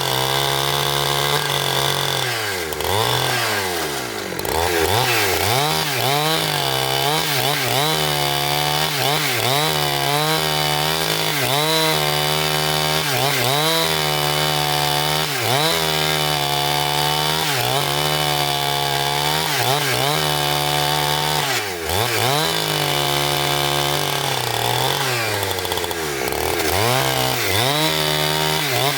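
Petrol-engine saw cutting timber. The engine pitch drops under load and climbs back about once a second, again and again, as the saw works through the wood.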